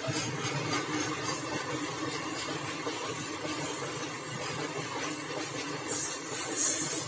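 Freight train of open-top wagons rolling past, a steady rumble of wheels on the rails. A high hiss that swells and fades comes in and gets louder near the end.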